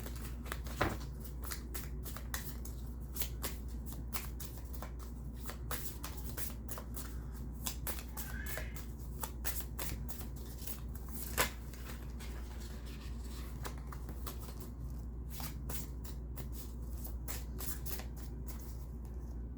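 A tarot deck being shuffled by hand: a long run of quick, irregular card flicks and riffles, with a sharper snap about a second in and another about eleven seconds in. A low steady hum runs underneath.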